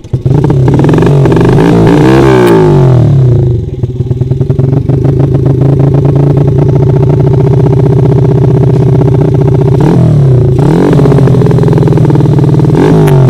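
Trail motorcycle engine revving hard, its pitch sweeping up and down for the first few seconds. After a short drop in throttle it holds high, steady revs.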